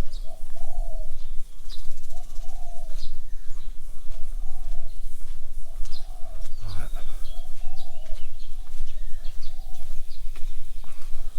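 A dove cooing, the same soft note repeated over and over about every second and a half, with small birds chirping higher up.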